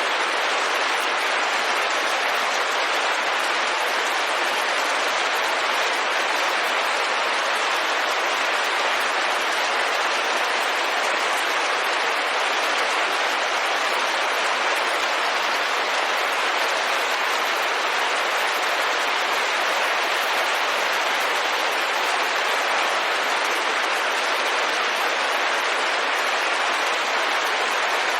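Steady rain on a window: an even, unbroken hiss with no single drops standing out.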